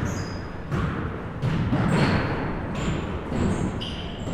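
Basketball bouncing on a gym floor at irregular intervals, mixed with short, high sneaker squeaks, in a hall that echoes.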